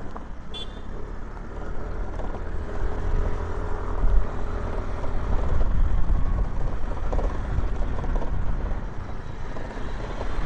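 Aprilia SR150 scooter's single-cylinder engine running under way, with wind rumbling heavily on the phone microphone.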